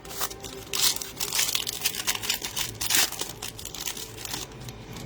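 Plastic trading-card pack wrappers crinkling and tearing as packs are opened by hand, in quick irregular rustles that are densest in the first three seconds.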